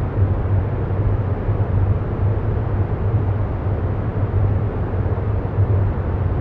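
Steady low rumbling background drone with a strong hum that swells and fades gently, like a continuous meditation soundscape bed.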